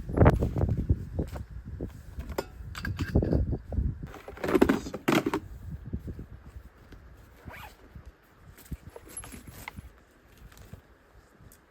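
A zipper being pulled in short rasping runs, amid clicks and scrapes from gear being handled. Low buffeting bursts fill the first few seconds.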